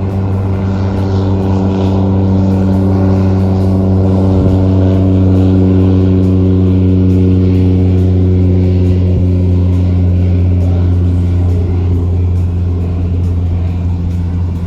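Steady low engine drone, a constant hum holding one pitch throughout.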